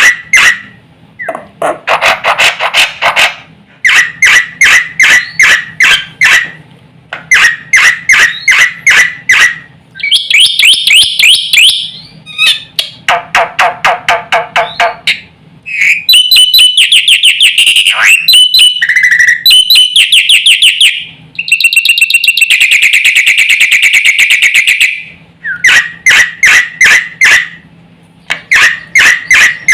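Black-winged myna (jalak putih) singing loudly in full song: bursts of rapid, harsh repeated notes about two seconds long with short gaps between them, mixed with varied higher phrases and a long buzzy trill a little after the middle.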